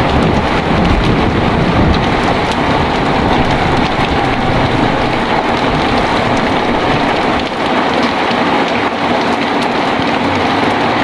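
Heavy rain pouring down steadily, with a low rumble of thunder underneath that fades out about two-thirds of the way through.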